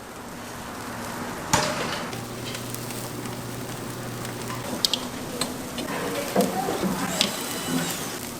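Spicy chicken stew sizzling in a giant cast-iron pot lid, a steady hiss, with one sharp clink about a second and a half in and a few lighter clinks near the end.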